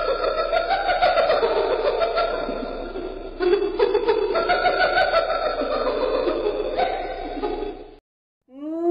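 A group of hyenas giggling and cackling in a dense, continuous chattering chorus, with its pitch shifting up and down; it cuts off suddenly about eight seconds in. Just before the end, a single hyena whoop starts, gliding upward in pitch.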